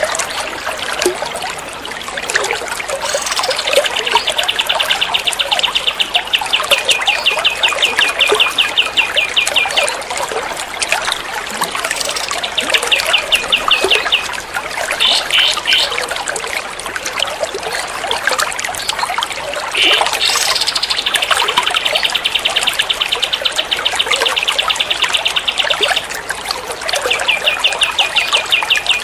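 A songbird's rapid trill of fast, evenly repeated high notes comes in bouts, two of them lasting about six seconds, over a steady background of trickling water.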